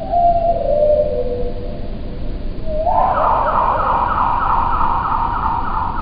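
Backyard birdsong slowed about four times and pitched down some two octaves: a short falling note, then from about three seconds in a rising note that breaks into a fast trill, over steady background noise.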